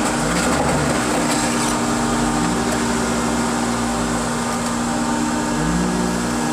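Car crusher's engine and hydraulic pump running steadily under load while crushing a car: a continuous machine hum with a lower tone that swells and dips every second or two.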